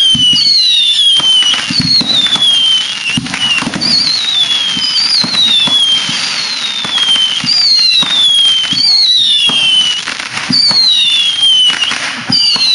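Fireworks going off in quick succession: a run of whistles, each falling in pitch over about a second and starting roughly once a second, over repeated dull bangs and crackle.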